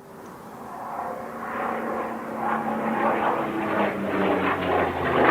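Piston-engined propeller fighter plane flying, its engine drone growing steadily louder as it approaches.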